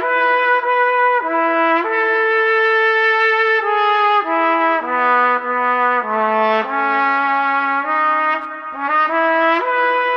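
Solo trumpet playing a slow melody of held notes, one note at a time.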